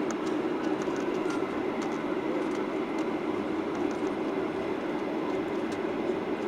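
Steady cabin hum of a Boeing 737-800 on the ground after landing, heard from inside the cabin, with faint scattered clicks and rattles.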